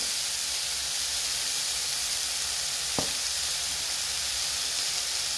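Pineapple slices sizzling steadily in a hot, dry nonstick pan with no oil. A single click about three seconds in.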